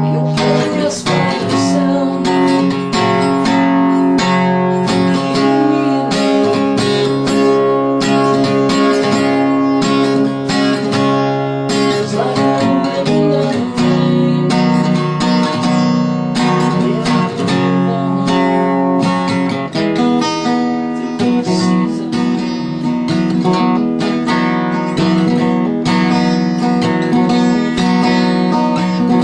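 Music: a steadily strummed acoustic guitar playing chords.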